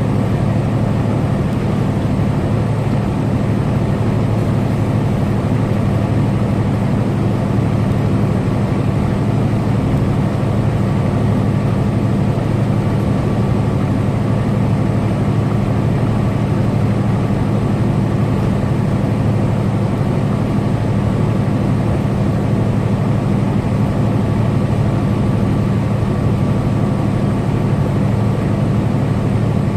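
Semi truck's diesel engine running steadily at highway cruising speed, a constant low drone with road noise.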